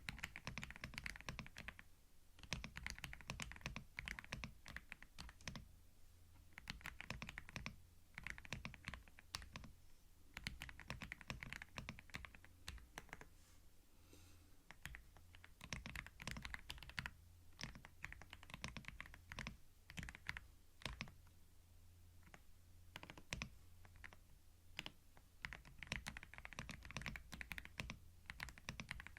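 Typing on a computer keyboard, recorded ear to ear with a binaural microphone. Keys click in quick runs of a second or two with short pauses between them, and one longer pause about halfway through. A low steady hum sits underneath.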